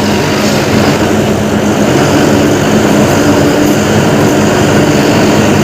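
Steady, loud engine-like drone with a low hum that holds a constant pitch, like a small motor or vehicle engine running.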